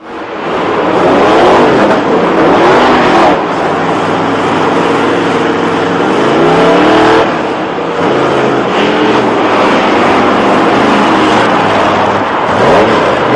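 Monster truck engine running loudly and revving, its pitch rising and falling repeatedly, with brief dips in level a few times.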